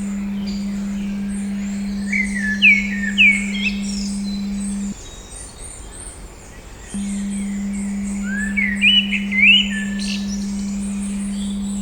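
Steady 200 Hz pure tone over a background of birdsong. Louder bird calls sweep upward in pitch twice, around 3 s and again around 9 s. The tone drops out for about two seconds in the middle.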